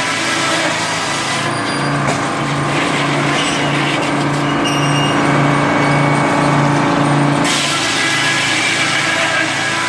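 A machine's engine running steadily. For several seconds in the middle, its low note pulses about twice a second.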